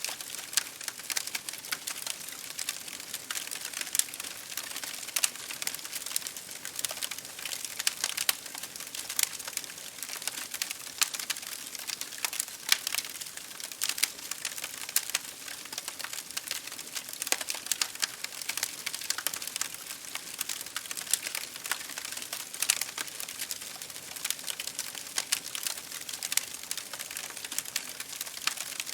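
Wood fire crackling in a fireplace, with dense irregular sharp pops and snaps, over a steady hiss of rain hitting a window pane.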